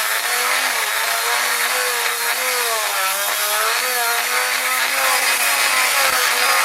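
Metalworking machine running a cut, with a motor hum whose pitch wavers up and down under load over a steady hiss.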